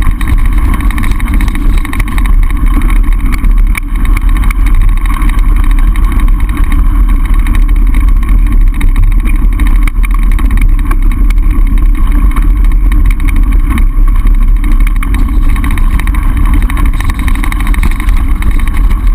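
Wind buffeting a camera microphone on a mountain bike riding downhill: a loud, steady low rumble, with frequent small clicks and rattles from the ride over rough ground.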